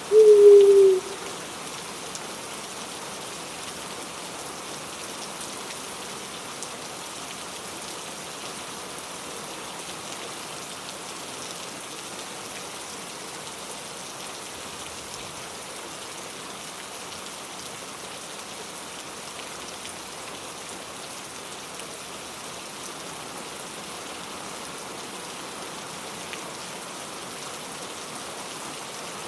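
Steady rain falling, an even hiss. In the first second a bird gives one loud, low hoot that falls slightly in pitch, the last of a short series; after that only the rain.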